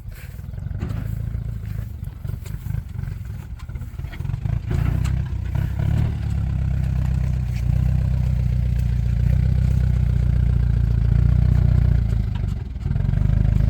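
An engine running with a steady low hum that gets louder about five seconds in and drops out briefly near the end.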